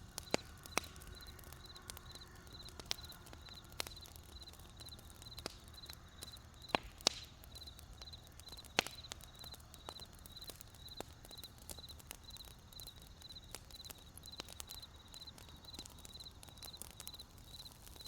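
Wood campfire crackling with scattered sharp pops, over crickets chirping in a steady, evenly spaced rhythm.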